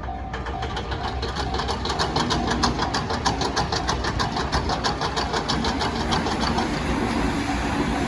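Level-crossing alarm bell ringing in its repeating on-off tone while a train passes close by. The train's wheels clack quickly and evenly over the rail joints, about five times a second, easing off near the end.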